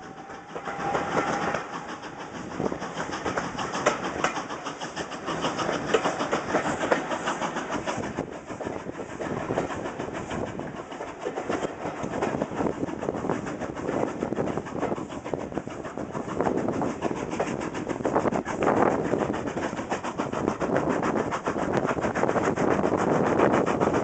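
Steam-hauled passenger train running, heard from a carriage window: a continuous rush of wheel and track noise with clickety-clack, growing louder near the end.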